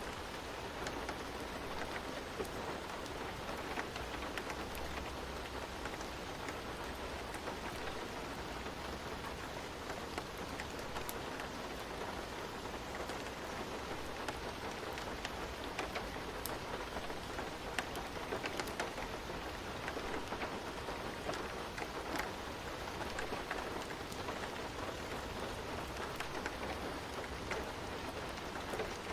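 Steady rain falling, an even hiss with scattered sharp drips striking a surface.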